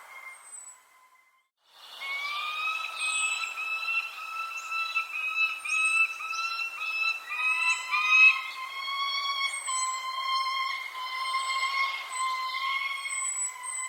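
Birdsong from several birds. One gives a run of clear whistled notes, each rising slightly, about two a second, then longer held notes, while short high chirps falling in pitch come in over it. The sound drops out to near silence for about a second near the start.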